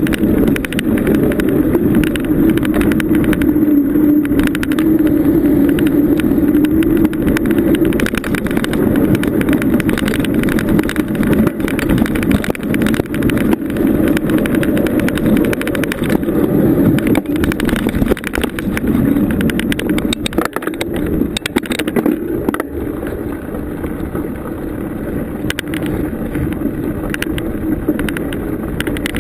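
Bicycle being ridden along a bumpy trail: a steady rumble of tyre and riding noise with frequent small rattles and knocks from the rough surface, easing slightly near the end.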